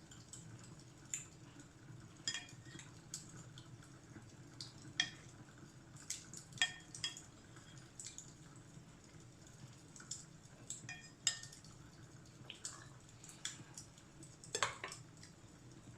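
Wood fire crackling: irregular sharp pops and snaps over a faint, steady low rumble, with a louder cluster of crackles near the end.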